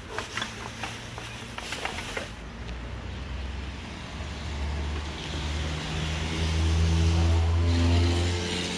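Car engine accelerating, rising and getting louder from about four seconds in and easing off near the end, after a few sharp clicks in the first two seconds.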